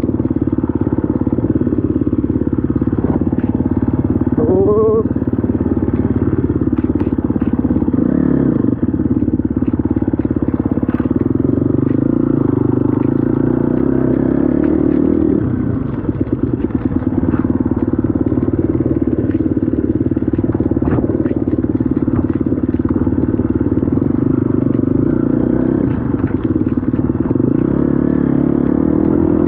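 Dirt bike engine running steadily as it is ridden along a trail. The engine note drops about halfway through and again near the end, with scattered knocks and rattles throughout.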